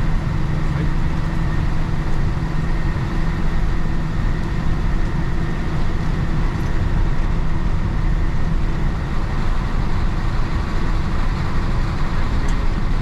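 Isuzu BXD30 bonnet bus's DA640 inline-six diesel engine running steadily under way, heard from inside the bus with road noise.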